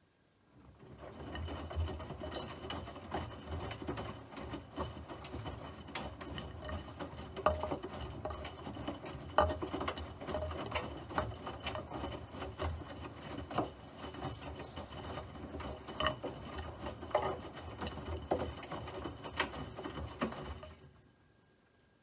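A machine running steadily for about twenty seconds, with dense rapid clicking over a low hum. It starts about a second in and stops abruptly near the end.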